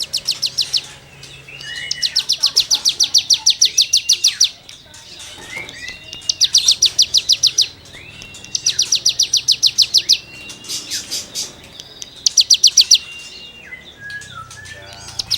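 A cigun songbird singing in repeated bursts of fast rasping, rattling trills, about eight notes a second. Short slurred whistles come between the bursts.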